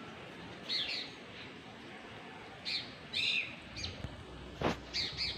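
Several short, high bird chirps, spaced irregularly over a soft background hiss, with a single faint click near the end.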